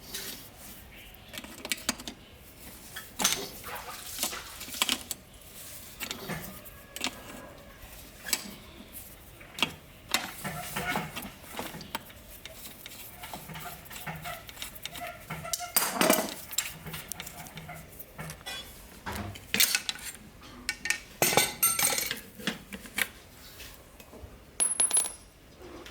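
Small metal parts clinking and clattering in irregular knocks and taps as bicycle parts are handled and worked on, with a few louder clanks.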